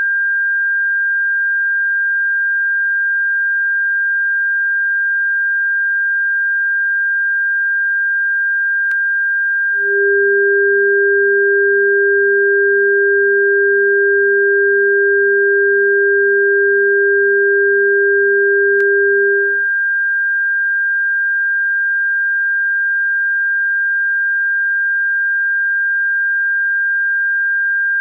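Electronic bird-repellent tone: a steady, high-pitched pure tone. About ten seconds in, a second, lower tone joins it, holds for about ten seconds, then stops.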